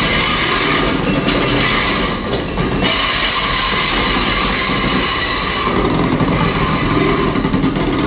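Intercity Express Train (IET) moving along a platform road, with a loud high hiss and thin steady squealing tones from the wheels and brakes over a low rumble. The hiss eases briefly about a second in and again near the middle.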